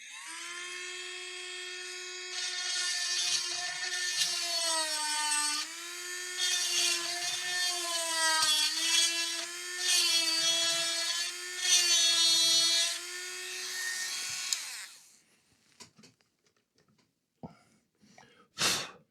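Small high-speed rotary tool running against a laptop circuit board to clean it: a steady whine whose pitch sags and recovers under load, with scratchy bursts as it works. It winds down after about fifteen seconds, followed by a short knock near the end.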